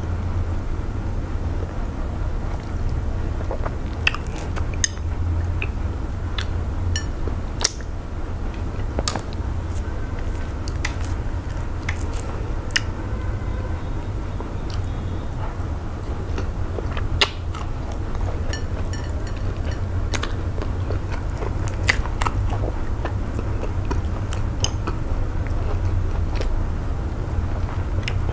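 Close-miked chewing and wet mouth sounds of eating eba (swallowed garri dough) with okra-melon soup, with many scattered sharp clicks and smacks. A steady low hum runs underneath.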